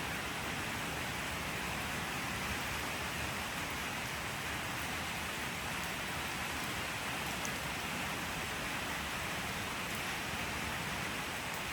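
Steady rain falling, a constant even hiss of many drops with no let-up.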